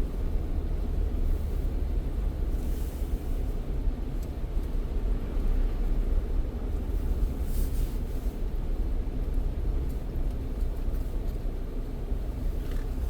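Steady low rumble of a car driving, road and engine noise, with two brief hisses about three and seven and a half seconds in.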